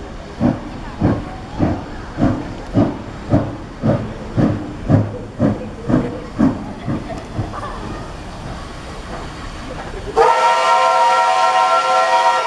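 Steam locomotive pulling in, its exhaust chuffing about twice a second and fading away, then about ten seconds in its steam whistle blows a long, loud blast of several tones at once.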